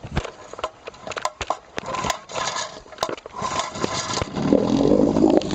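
Pull-start of a 1950s Johnson 7.5 hp AD-10 two-stroke outboard: clicks and two rasping rope pulls, then the motor catches on the second pull about four seconds in and runs steadily.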